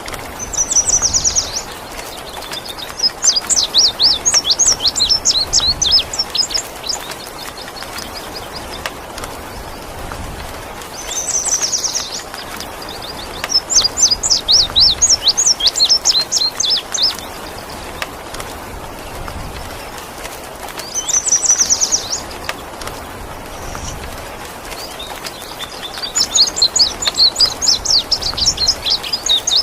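Indigo bunting singing in four bursts of several seconds each. Every burst opens with a short rapid buzzy trill, followed by a run of quick high sweeping notes. A steady rain-like hiss runs underneath.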